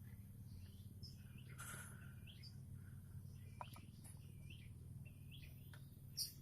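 Young weaver bird (manyar) chicks giving faint short begging chirps, repeated every second or so, with a louder one near the end. The calling is a sign that the chicks are hungry.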